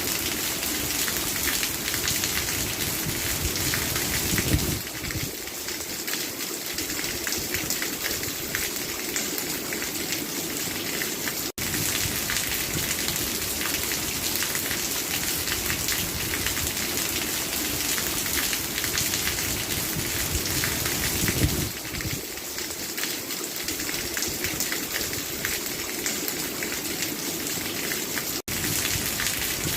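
Steady rain falling, a dense, even hiss of drops, cutting out for an instant twice.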